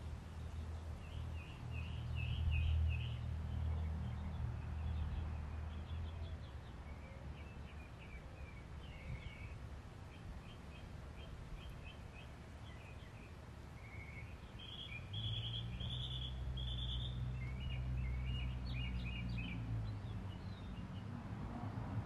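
Several small birds chirping and trilling in short, repeated high calls, busiest near the end. Underneath, a low hum swells and fades twice, each time for several seconds.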